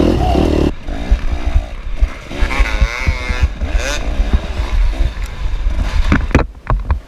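Dirt bike engine revving up and down under throttle on a race trail, with rough low thumps and buffeting from the ride.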